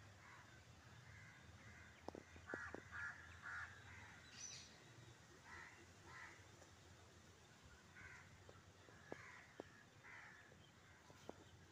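Near silence with faint, repeated bird calls scattered throughout, crow-like caws, and a few small sharp clicks.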